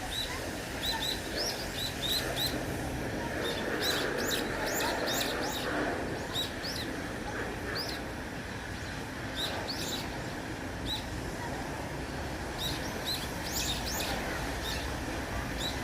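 Many small songbirds chirping, with short, high calls coming in quick, overlapping runs.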